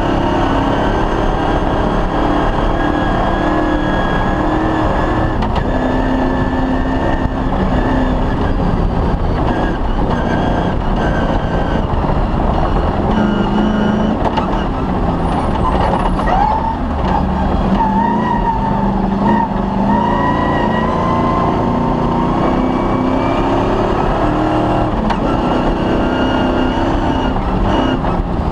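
Off-road rally car's engine running hard at high load through a cross-country stage, its pitch stepping up and down as the car accelerates and slows. A brief higher wavering whine comes in about halfway through.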